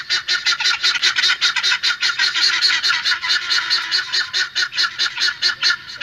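Domestic guineafowl (helmeted guineafowl) calling: a rapid, unbroken string of harsh, scratchy notes, several a second.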